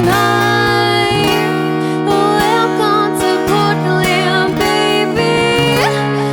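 Live rock band playing an instrumental passage: guitar, with a wavering lead melody over held bass notes that change about a second in and again near the end.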